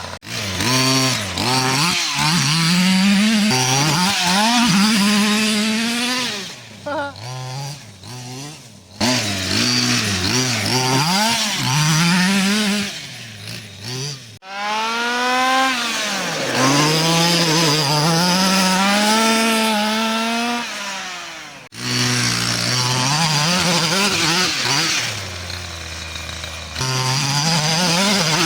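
The 32cc two-stroke engine of a 1/5-scale Redcat Rampage MT gas monster truck, revving up and down over and over, with a few sudden breaks.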